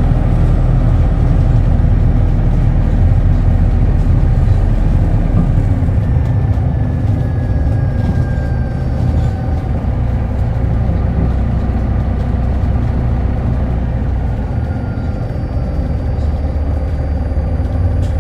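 Hino Blue Ribbon Hybrid city bus running, heard from inside the passenger cabin: a steady low engine note that changes about six seconds in, with a faint whine falling slowly in pitch.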